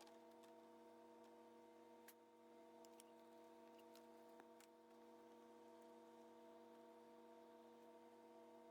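Near silence: a faint steady electrical hum with a few faint isolated clicks.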